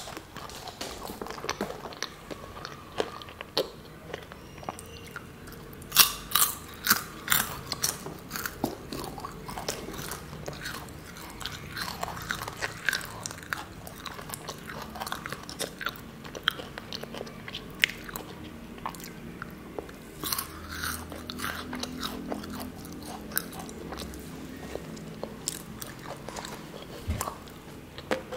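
Close-up crunching and chewing of crunchy matcha snacks. Sharp crunches come in clusters, loudest about six to seven seconds in and again around twenty seconds.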